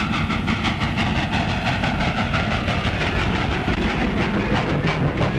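Steady mechanical clatter: quick, even clacks over a constant low rumble, of the kind a moving train or an old vehicle makes.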